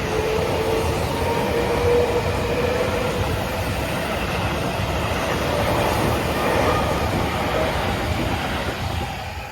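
Seibu 40000 series electric train passing over a level crossing: a steady, loud rumble of wheels on the rails, with a faint rising whine in the first two seconds, dying away at the very end.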